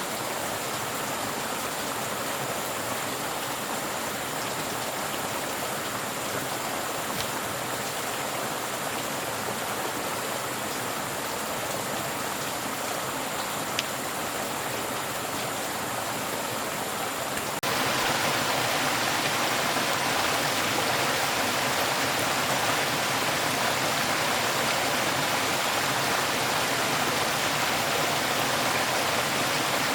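Steady rushing of running water. It jumps abruptly louder and brighter a little past halfway, with a faint steady high whine and a single small click along the way.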